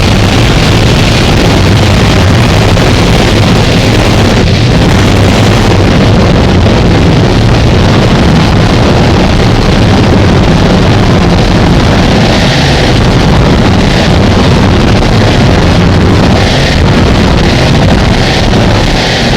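Harsh noise wall: a dense, heavily distorted wall of static noise, very loud and unchanging, with a heavy low rumble underneath.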